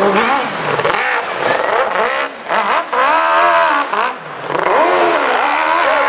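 Motocross bike engine revving hard under load up a steep hill. Its pitch swings up and down with the throttle, with brief drops about two and four seconds in.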